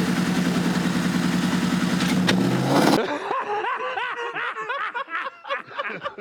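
Car engine idling steadily, rising a little in pitch just before it cuts off abruptly about three seconds in. A string of quieter, short repeated sounds follows.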